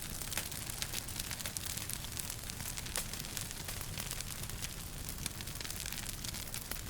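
Wood fire crackling in a fireplace: many small sharp pops and snaps, several a second, over a steady hiss and low rumble of the burning.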